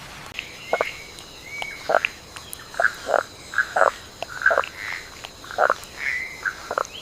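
Frogs calling, a dozen or so short croaks at irregular intervals, over a steady high-pitched hum that sets in just after the start.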